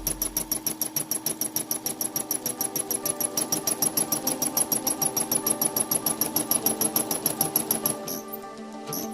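Brother SE400 embroidery machine stitching fast and evenly at about ten stitches a second, then stopping near the end.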